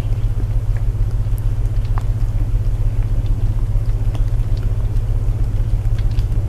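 Layered ambient sleep soundscape: a steady low drone of binaural tones under the even hiss of rain, with scattered small crackles of a wood fire.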